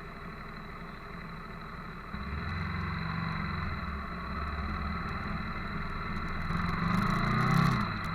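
Motorcycle engines running, stepping up in level about two seconds in and getting louder near the end.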